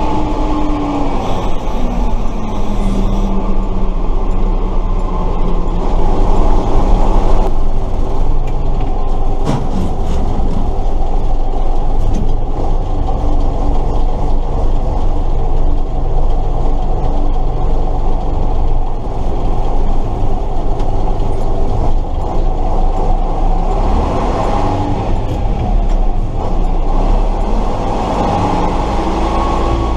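1968 Tatra 138 fire truck's air-cooled V8 diesel running while the truck is driven, heard from inside the cab. The engine pitch drops over the first few seconds and rises again near the end, and there is a sharp knock about ten seconds in.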